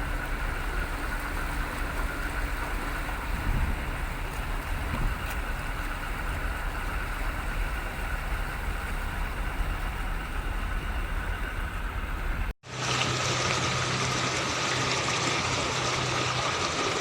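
An engine running steadily, with no change in speed. About three-quarters of the way through the sound cuts off abruptly and a different steady engine sound with a low hum takes over.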